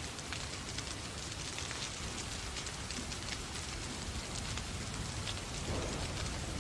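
Steady rain mixed with a crackling fireplace fire: an even hiss sprinkled with many small, sharp ticks.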